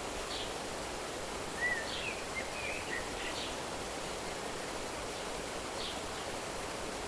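Nature ambience: a steady rush of flowing water with short bird chirps here and there, and a quick run of several chirps about two to three and a half seconds in.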